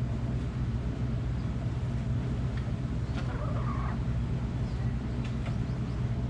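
A hen's short drawn-out call about three seconds in, over a steady low rumble, with a few faint chirps.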